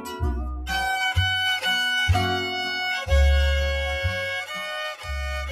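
Instrumental break of a gospel song: a fiddle plays a melody of held notes over a bass line.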